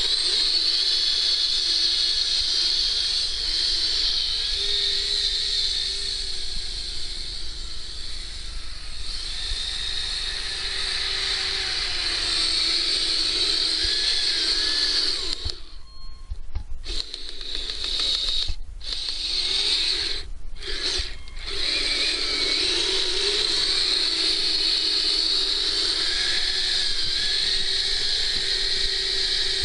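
Kyosho Blizzard RC snowcat's electric motor and gearbox whining steadily, the pitch shifting with the throttle. About halfway through it cuts out for a second, then stops briefly three more times as the throttle is let off.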